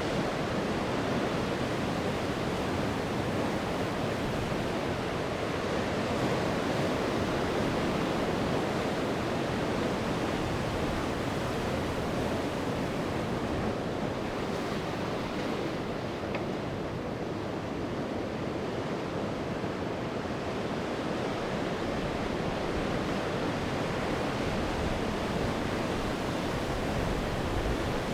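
Sea waves breaking and washing on the shore, a steady rushing surf with gentle swells in level and a little wind.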